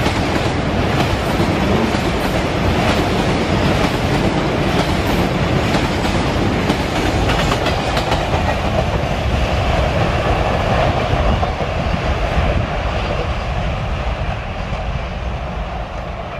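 Steel wheels of a rake of bogie tank wagons running past at speed, a steady clatter with rapid clicks over the rail joints. It eases off after about twelve seconds and fades out at the end.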